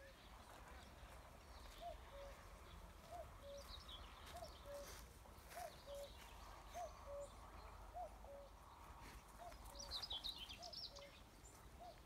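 A bird repeating a soft two-note call, the first note higher than the second, about once every second and a bit, with a few faint high chirps from other small birds.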